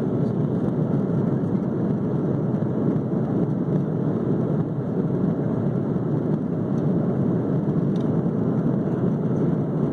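Steady cabin noise inside an Airbus A330 airliner at cruise, the airflow and engine noise heard through the fuselage: an even, deep hiss that does not change.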